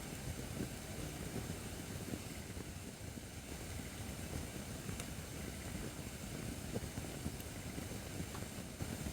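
Acacia firewood burning in a fire pit: a steady low rush of flames with a few scattered small crackles and pops.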